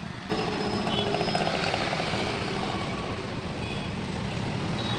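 Cordless angle grinder motor switched on about a third of a second in and running steadily.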